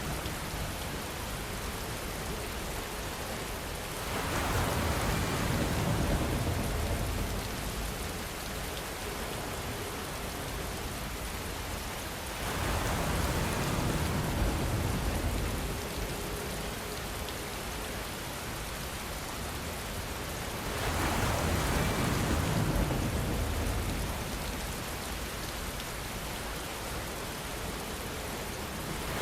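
Steady rainfall, an even hiss of drops, swelling louder three times at roughly even intervals before settling back.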